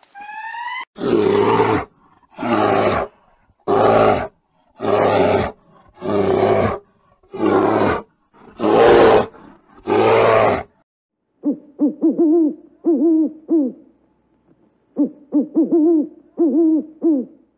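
A brown bear roaring eight times, each roar under a second long and about one and a half seconds apart. Then a Eurasian eagle-owl hooting in two quick runs of short, deep hoots.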